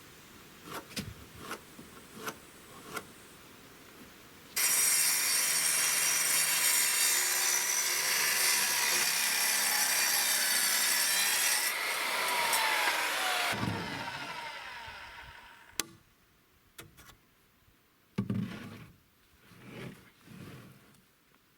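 Power saw cutting through wood for about nine seconds. It starts suddenly and ends with the motor winding down to a stop. Light clicks and knocks come before and after the cut.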